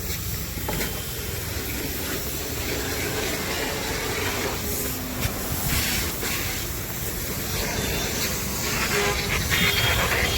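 Tractor engine running steadily, with a hiss over it and a few light knocks.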